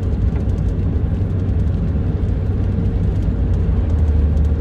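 Steady low drone of road and engine noise inside a moving vehicle's cabin, with faint light ticks over it.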